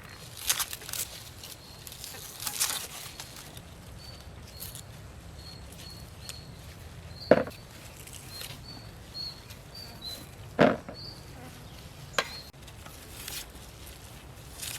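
Short high insect chirps come and go over a quiet outdoor background. Rustling handling noise sounds near the start, and three sharp knocks fall in the second half.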